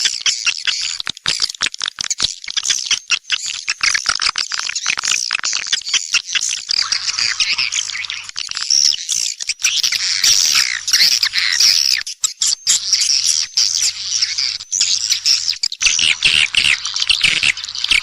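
Swiftlets twittering in a dense, continuous chorus of shrill chirps with rapid clicks, thickest in the second half. This is a swiftlet lure call ('walet' call) of the kind played to attract swiftlets into nesting houses.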